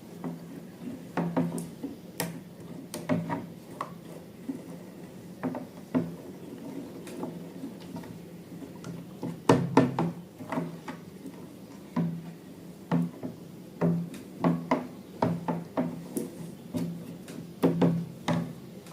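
Hands working with slime-making materials: irregular taps, clicks and light knocks against a bowl and tools, with a louder cluster about halfway through.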